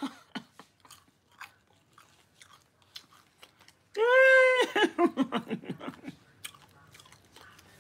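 A person chewing and biting into crispy fried chicken close to the microphone, with small crunches and mouth clicks. About four seconds in, a loud wordless high vocal note breaks in and trails away over the next second or two.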